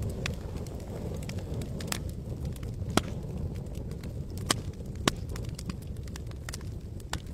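Campfire burning: a steady low rumble of flames with irregular sharp crackles and pops of burning wood, a few louder pops near the middle.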